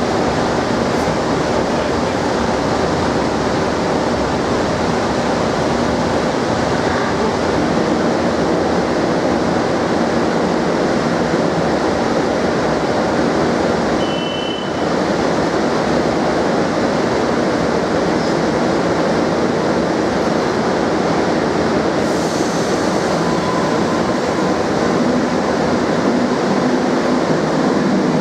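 Madrid Metro Serie 2000A train at the platform, a steady loud rushing noise of the train and station, with a short high beep about midway. A low steady motor hum comes in near the end.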